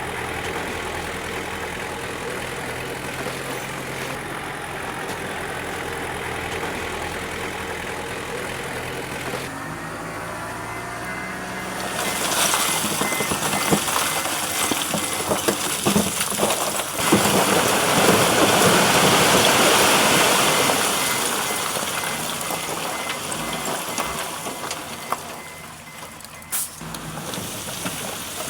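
Bulldozer's diesel engine running steadily. About twelve seconds in, a louder stretch of scraping and clattering begins, dotted with sharp clicks, as the dozer works stone. It is loudest a little past the middle and eases off near the end.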